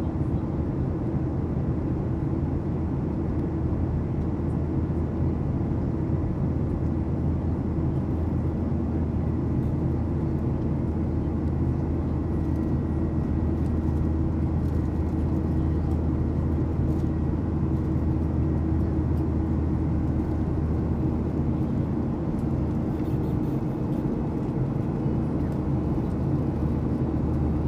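Steady cabin drone inside a Boeing 737-800 in flight: engine and airflow noise, heaviest in the low range, with a faint high whine over it.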